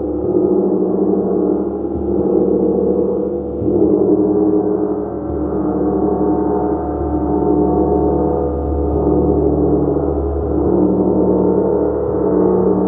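A gong being played continuously with soft, repeated strokes. It builds a dense, sustained, shimmering wash of overlapping low and mid tones that swells and ebbs every couple of seconds.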